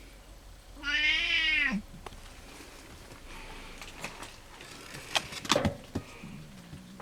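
A cat gives one loud meow about a second in, falling in pitch at its end. A few sharp clicks and knocks follow a few seconds later.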